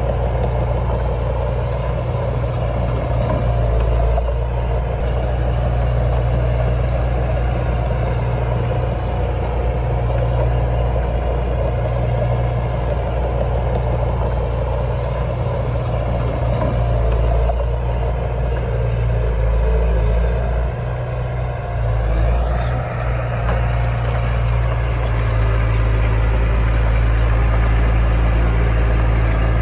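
Heavy diesel engine of earthmoving equipment running steadily at a low, even pitch, with a brief rising whine about two-thirds of the way through.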